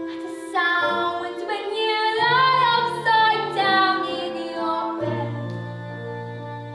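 A child's solo voice singing long, wavering notes over a sustained instrumental backing with bass notes. The voice comes in about half a second in, rises in pitch in the middle of the phrase, and drops out after about four and a half seconds, leaving the accompaniment.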